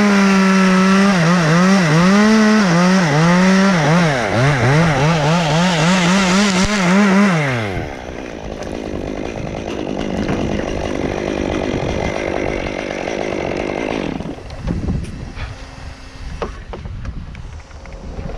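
Chainsaw at high revs cutting into Canary Island pine wood, the engine pitch dipping and recovering again and again as the chain bogs under load, then falling away about eight seconds in. A quieter, rough running noise follows, then a few short knocks near the end.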